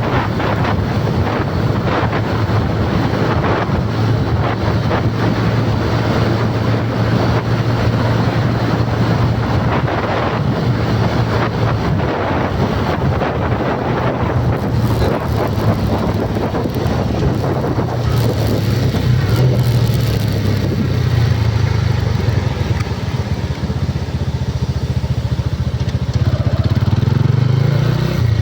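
Vehicle engine running steadily while on the move, a low hum under road and wind noise buffeting the microphone.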